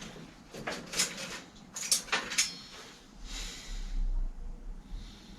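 A few sharp clicks and knocks of things being handled, then a short rushing noise about three seconds in.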